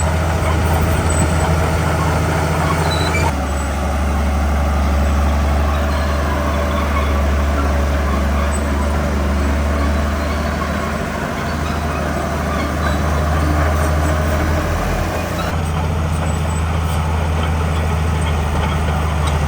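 Heavy diesel engine of earthmoving machinery running steadily under load. Its sound changes abruptly about three seconds in and again a few seconds before the end.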